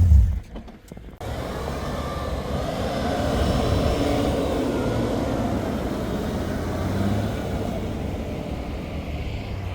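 An off-road vehicle driving, its engine running steadily under a continuous rush of tyre and road noise, after a brief lull about a second in.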